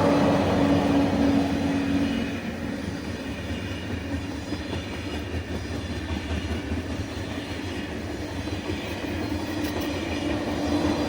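A train running through a station: a continuous rumble of wheels on rails, with a steady hum loud for the first couple of seconds, quieter in the middle and rising again near the end.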